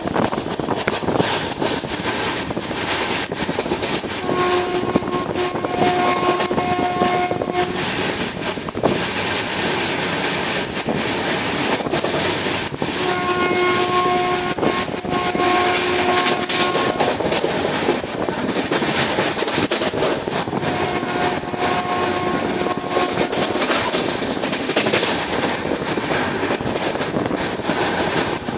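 Running noise of a train at speed heard from a carriage window, a steady rumble and rush with wheel clatter. A train horn sounds three times, each for a few seconds: about four seconds in, around thirteen seconds, and around twenty-one seconds.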